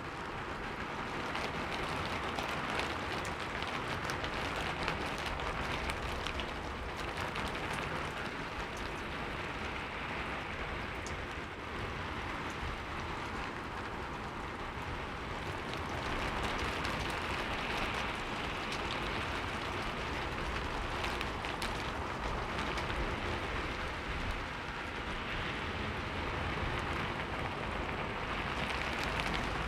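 Heavy rain falling steadily: a dense hiss of drops with fine scattered ticks, swelling and easing a little every few seconds.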